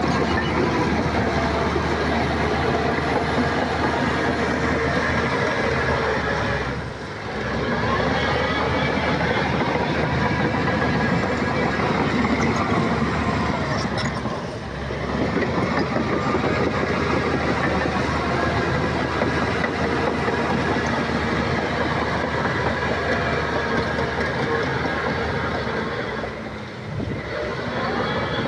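SHANTUI crawler bulldozer working: its diesel engine runs under load over the clatter of its steel tracks, easing off briefly about seven, fourteen and twenty-seven seconds in before picking up again.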